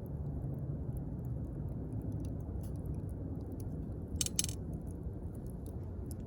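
Wood fire burning: a steady low rush of flames with scattered small crackles, and a sharper double pop about four seconds in.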